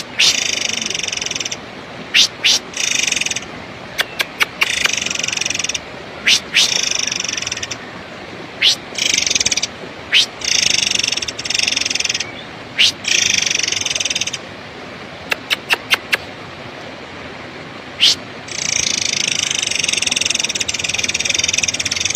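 Murai air (forktail) calling over and over: harsh, rasping call phrases of one to two seconds, alternating with short, sharp whistled notes, and a longer rasping stretch near the end.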